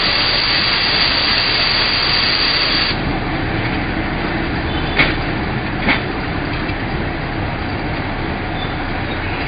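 Train running slowly with a steady low rumble; a loud hiss covers the first three seconds and cuts off suddenly, and two short sharp knocks come about a second apart midway through.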